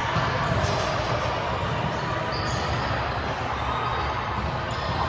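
Indoor volleyball gym ambience: volleyballs being hit and bouncing on the court, with a few sharp impacts over steady, echoing hall noise and distant voices.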